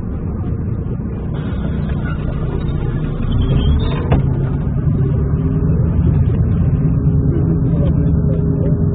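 Motor vehicle engine running in street traffic, a steady low rumble that gets louder about three seconds in.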